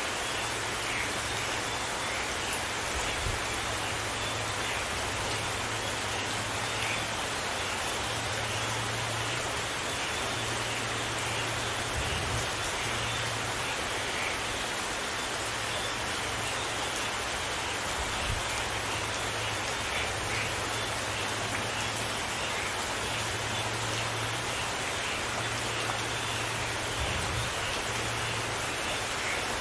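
Steady, dense rain falling and pattering on surfaces.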